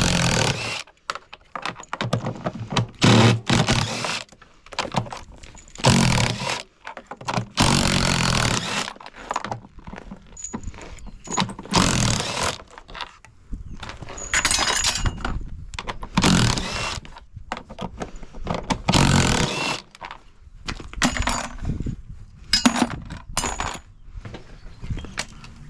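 Hand tools and loose metal parts of a washing machine's steel cabinet clattering, knocking and scraping in a string of irregular short bursts as its outer bolts are undone and parts pulled off.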